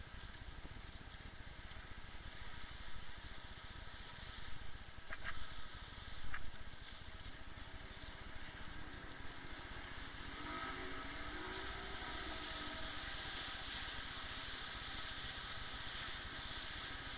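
Motorboat engine running steadily under way, with a rushing hiss of wind and water that grows louder in the second half as the boat speeds up.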